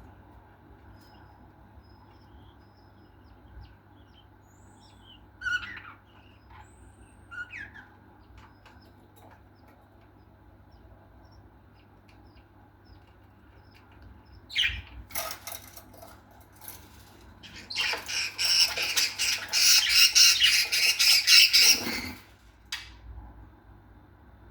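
Pet lovebirds giving a few short, scattered chirps, then a loud flurry of wing flapping and squawks lasting about four seconds near the end.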